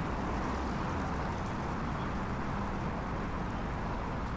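Steady ambient background rumble with a light hiss and no distinct events.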